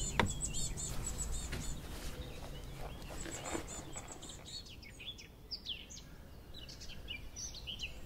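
Several birds singing and chirping, with many short high-pitched twitters and trills. Just after the start, a single knock as a camera lens is set down on a wooden slatted table.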